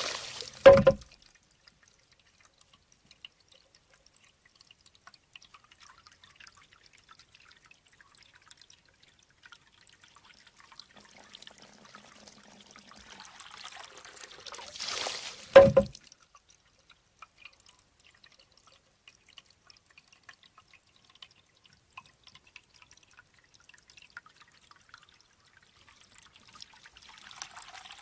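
Japanese shishi-odoshi (bamboo water fountain): water trickles into the bamboo tube, it tips and pours out with a short rush, then knocks back against its stone with a hollow clack. The clack comes twice, within the first second and again about halfway through, with faint trickling and drips between.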